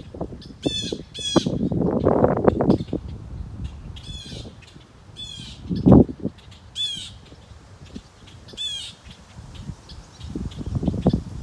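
Birds giving short, harsh calls about seven times at irregular intervals. Low rumbling noise comes in the first few seconds and again near the end, and a single thump about six seconds in.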